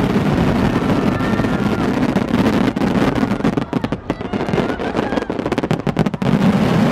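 Fireworks crackling in dense, irregular rapid pops, over the murmur of a crowd.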